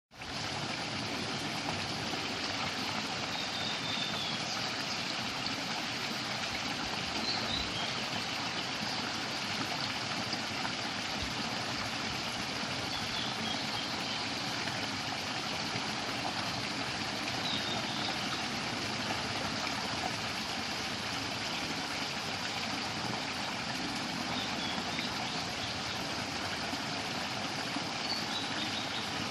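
A stream flowing steadily, with a bird giving short, faint high chirps now and then over the water.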